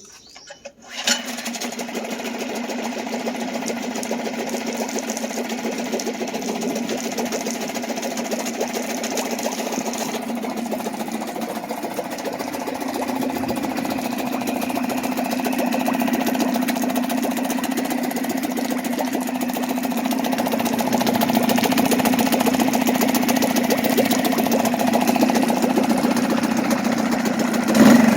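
Suzuki DF2 2 hp four-stroke outboard motor starting about a second in after servicing, then running steadily at a low speed.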